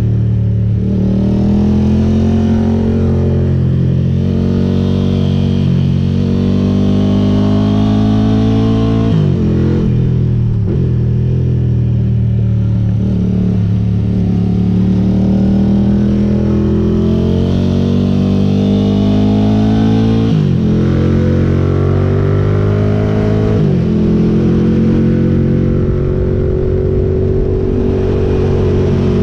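Ducati GT1000's air-cooled L-twin running through Termignoni exhaust pipes as the bike is ridden hard. The engine pitch climbs under throttle and falls back repeatedly as the rider changes gear.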